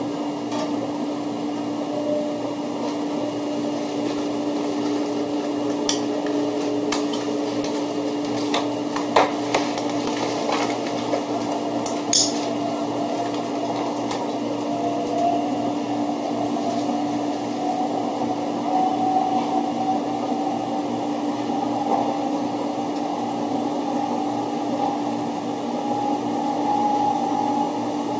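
Running noise of a 0 series Shinkansen heard inside the passenger car at speed: a steady rumble with a constant low hum and a faint whine that rises slightly past the middle. A handful of sharp clicks and rattles come about a third of the way in.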